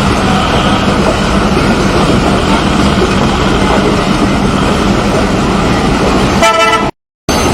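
Loud, steady noise with a short horn toot near the end, followed by a sudden, brief dropout to silence.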